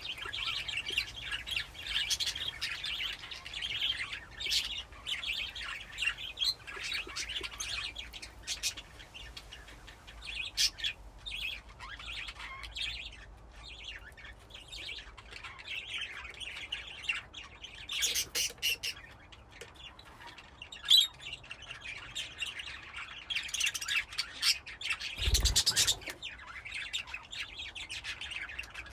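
A flock of budgerigars chirping and chattering continuously, with scattered sharp clicks and one louder low thump near the end.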